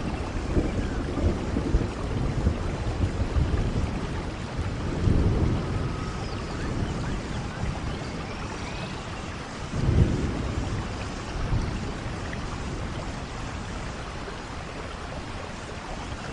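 Steady rainfall, with low rumbles that swell about five seconds in and again, loudest, about ten seconds in.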